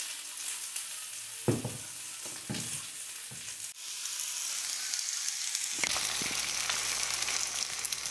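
Eggs, spinach and peppers frying on a griddle, a steady sizzle, with a sharp knock about a second and a half in and a few fainter knocks after it.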